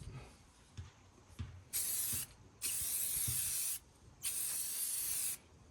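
Aerosol can of Rust-Oleum spray paint spraying in three bursts of about a second each, with short pauses between, onto a brake drum and hub. A few light knocks come first.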